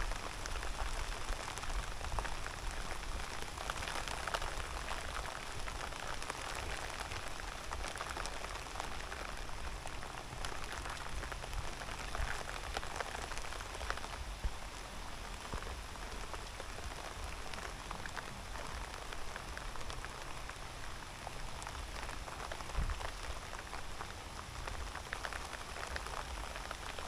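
Steady rain falling: a dense, even hiss of many small drop ticks, with a low rumble underneath.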